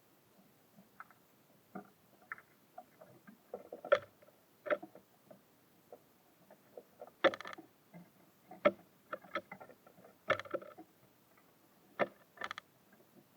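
Small birds pecking and hopping on a wooden bird feeder: irregular sharp taps and knocks, closely miked, with a few louder knocks about four, seven, nine, ten and twelve seconds in.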